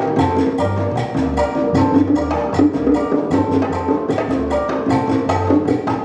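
Live band playing an instrumental passage of a Latin-style song: a steady beat of quick percussion strikes over a repeating bass line and held notes from pitched instruments, with no singing.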